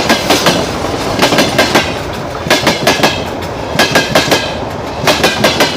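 Freight wagon wheels knocking over a rail joint, heard close up beneath the train. Each group of about four clacks is the axles of neighbouring wagons' bogies crossing the joint, and a group comes about every 1.3 seconds.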